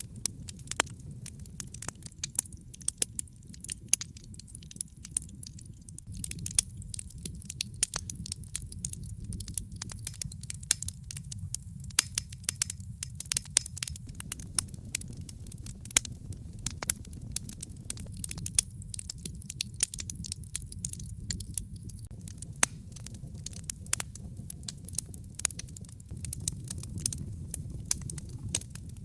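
Wood fire in a fireplace crackling, with many small crackles and sharper pops every couple of seconds over a steady low rumble.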